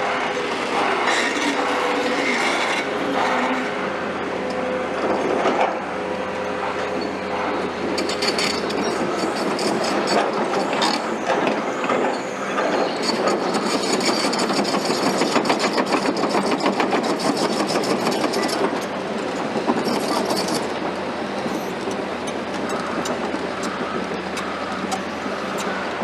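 Heavy construction machinery running, with continuous metallic rattling and clanking and a high squeal joining in about halfway through.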